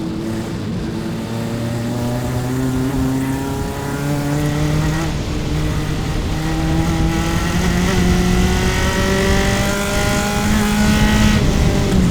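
Single-seater formula race car's engine heard onboard, pulling hard with its pitch climbing slowly. There is a brief break in the note about four seconds in, and an upshift drops the pitch near the end.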